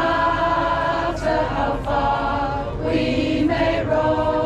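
A choir singing in harmony, several voices holding long notes together, with short breaks between phrases.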